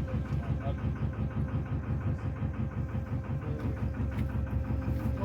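Narrowboat engine running steadily while under way, a low chugging with a regular beat of about five pulses a second.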